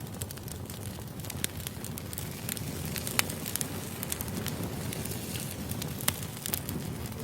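Burning firewood crackling: irregular sharp pops and snaps over the steady low rumble of the fire.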